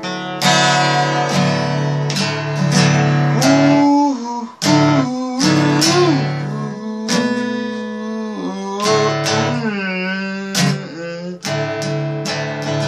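Acoustic guitar being strummed in a loose rhythm, with some notes bending up and down in pitch.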